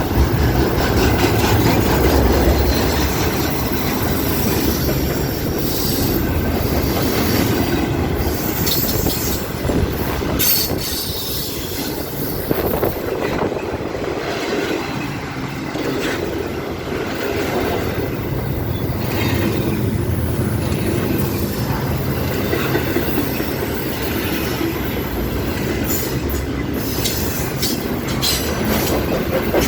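Freight cars of a slowing BNSF freight train rolling past, wheels clattering over the rails, with short high-pitched wheel squeals now and then.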